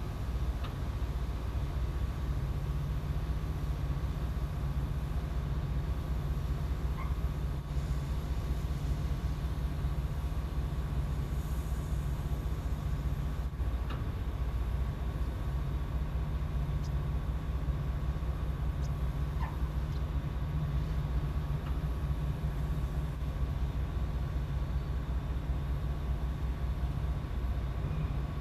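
Boat engine running steadily: a constant low drone with a faint steady whine above it.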